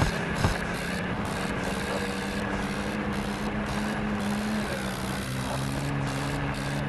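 John Deere tractor's diesel engine running steadily, its pitch shifting slightly about two-thirds of the way through.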